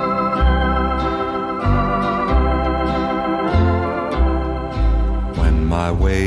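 Organ playing sustained, slightly wavering chords over a stepping bass line, as the instrumental lead-in to a hymn. A short rising glide comes near the end.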